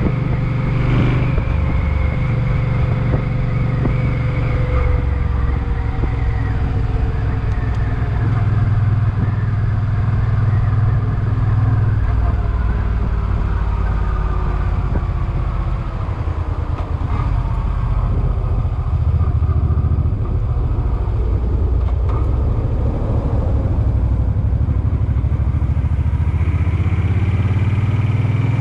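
Suzuki Boulevard M50's V-twin engine running while the motorcycle is ridden. The engine note slowly falls, then rises again near the end as the bike picks up speed.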